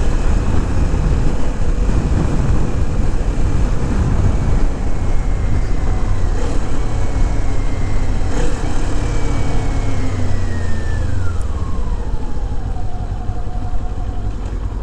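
Kawasaki Z400's parallel-twin engine running under way, with wind rushing over the helmet microphone. About two-thirds of the way in, the engine note falls in one long glide and the overall level eases slightly.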